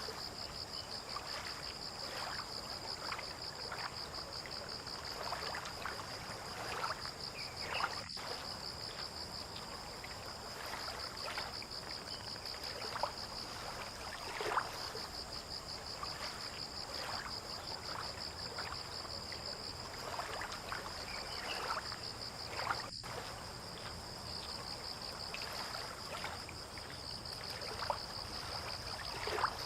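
A steady high-pitched chirring of insects, with water lapping in short, irregular splashes over it.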